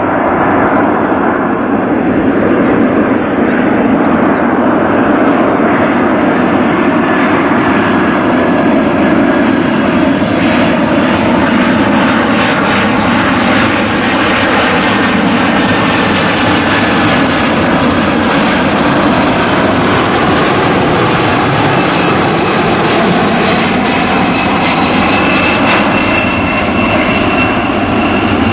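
Four-engined Boeing 747-400 freighter's jet engines, a loud, steady rushing noise as the aircraft comes in to land, with faint tones slowly falling and then rising again in pitch as it passes.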